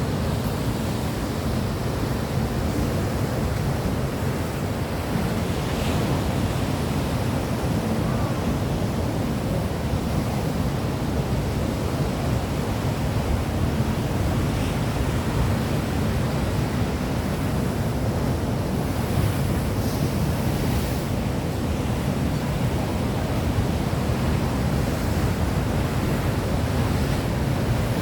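Steady rushing of wind and surf, with wind buffeting the microphone and giving a heavy low rumble.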